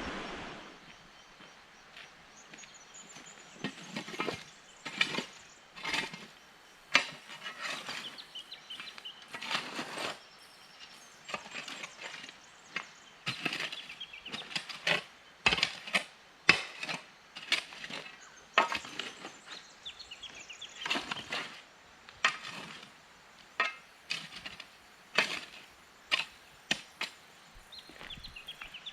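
Firewood being broken up: a long, irregular run of sharp wooden cracks and knocks, about one or two a second, with softer crackling and rustling between them.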